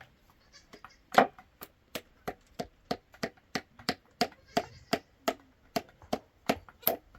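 Rapid, evenly spaced chopping strikes, about three a second, starting about a second in; the first blow is the loudest.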